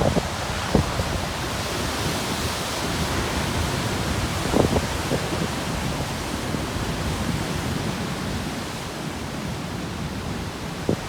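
Big ocean waves churning and breaking on a rocky shore at high tide, a steady rushing wash of surf. A few brief thumps stand out, near the start and about four and a half seconds in.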